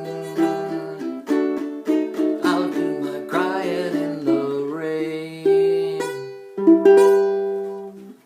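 Closing instrumental phrase of a song played on a plucked acoustic string instrument: single notes and chords, ending on a final chord about six and a half seconds in that rings and fades away.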